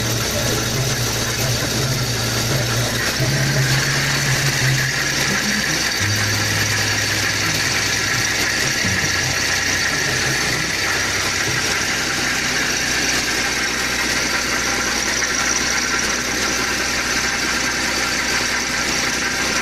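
Nissan Maxima A33's V6 engine running at idle with a strange noise from the engine whose cause the owner cannot find.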